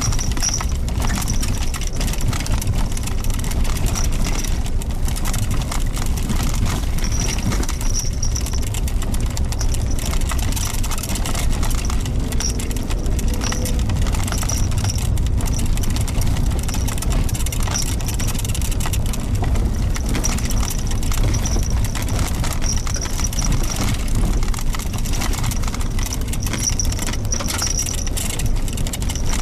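Suzuki Jimny Sierra driving on a dirt forest road: steady engine and tyre rumble with constant small clicks and rattles from gravel under the tyres.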